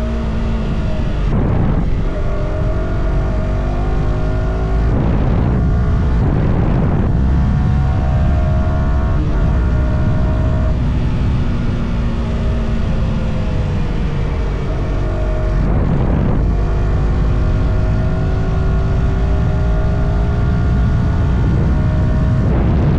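Yamaha R125's single-cylinder four-stroke engine with its stock exhaust, pulling through the gears on the move: the engine note climbs, breaks off briefly at each of about five gear changes, and sags again when the rider backs off. A steady low rush of wind runs underneath.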